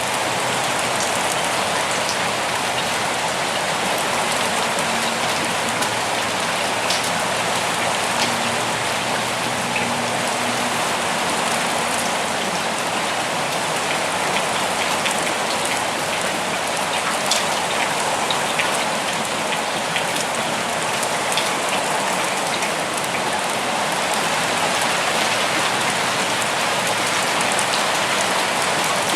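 Steady rain falling in a forest, a continuous hiss with scattered close drops ticking sharply on leaves and surfaces.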